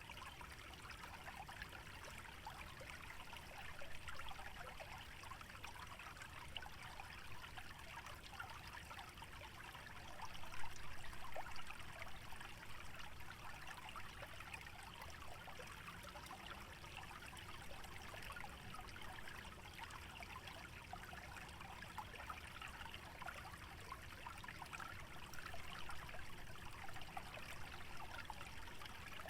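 Shallow stream trickling steadily through a wetland, a fine, even babble of water with a brief louder swell about a third of the way in.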